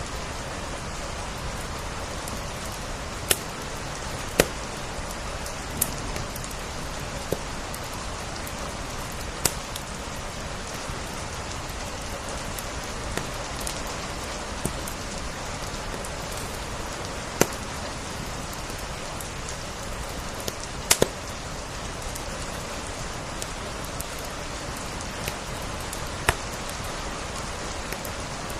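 Steady rain hiss with a wood fire crackling over it: a dozen or so sharp, irregular pops scattered through, some doubled.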